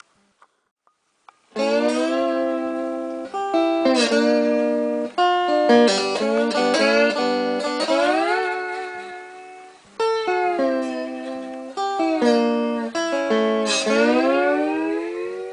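Three-string slide guitar played through a hand-wound pickup: plucked notes and chords, sliding between pitches, starting about a second and a half in after a brief silence, with a rising slide near the end.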